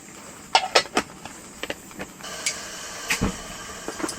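A few light metal clinks of a lid going onto a mess tin. Then, about two seconds in, the steady hiss of a gasoline camping stove's burner starts, with a dull knock soon after.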